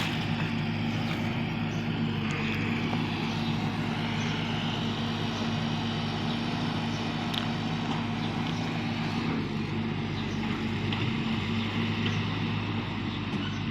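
Excavator engine running steadily, a low even drone that holds the same pitch throughout.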